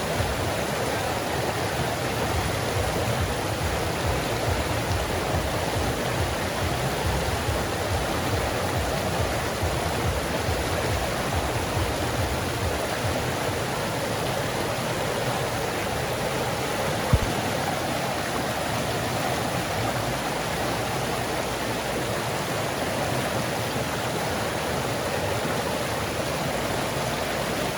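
Forest creek water flowing steadily. A single short click sounds about two-thirds of the way through.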